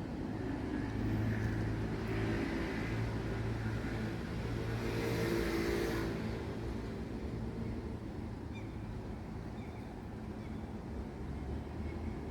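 Engine hum of motor traffic, with one vehicle passing that is loudest about five seconds in and then fades away.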